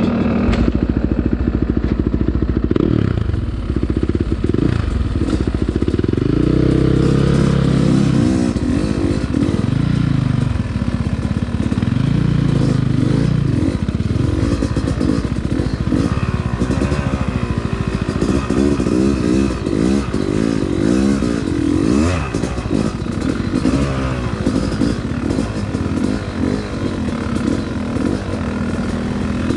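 Yamaha dirt bike engine running close up, pulling at low trail speed, its pitch rising and falling again and again as the throttle is opened and eased off.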